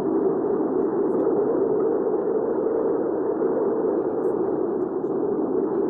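Recorded hurricane wind ambience: a steady, dull rushing of strong wind, low in pitch with no whistle or gusts standing out.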